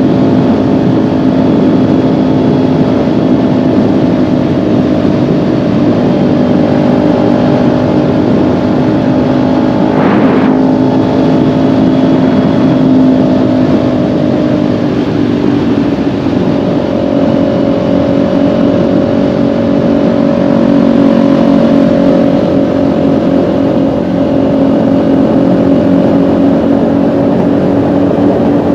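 Kawasaki Ninja 400's parallel-twin engine, its valves freshly adjusted, running steadily while the bike is ridden. The engine note drops slightly about halfway through, and there is one brief short noise about a third of the way in.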